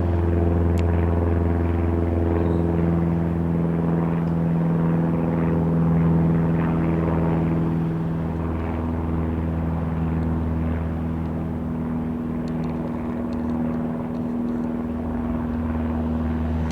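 Light propeller aircraft engine droning steadily, its pitch shifting slightly as it passes.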